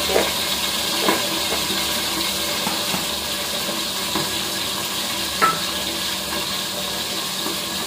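Chillies frying in oil in a lidded wok, a steady sizzle. A few short knocks of plastic bowls and dishes being handled sound over it, the sharpest a bit over five seconds in.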